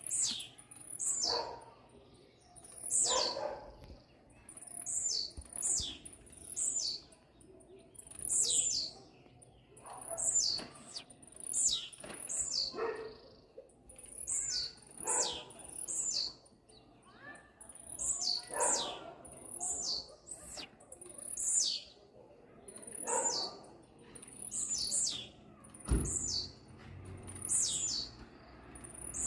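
Blue-black grassquit (tiziu) singing fast, repeating its short, very high, falling song notes, usually in quick pairs, every second or two.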